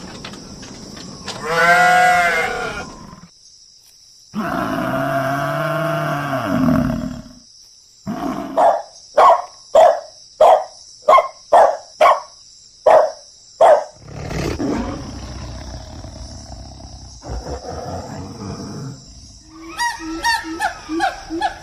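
A run of different animal calls one after another: a long call, then about nine short, loud grunts at even spacing, then quicker, higher calls near the end.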